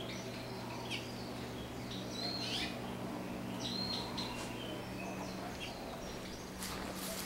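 Birds chirping in short, scattered calls, over a steady low hum.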